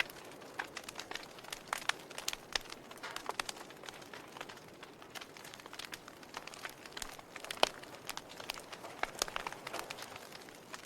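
Log fire crackling: irregular sharp pops and snaps over a soft hiss, with one louder pop about two-thirds of the way through.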